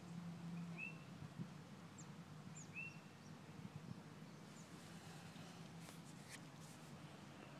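Faint outdoor quiet with a few short bird chirps, then a few soft rustles about six seconds in.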